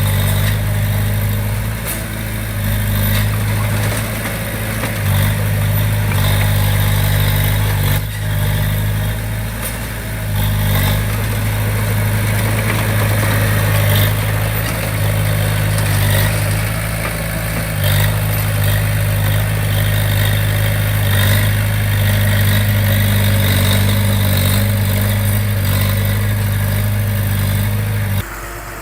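Small bulldozer's diesel engine running steadily with a low pitch, with a few short knocks, dropping away abruptly near the end.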